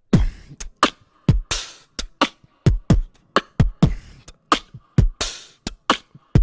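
Vocal beatbox loop: a steady beat of deep kick-drum sounds that drop in pitch, alternating with sharp snare and hi-hat sounds. It starts suddenly after silence.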